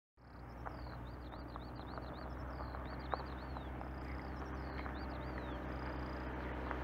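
Small birds chirping in quick runs of high, arched notes over a steady low hum.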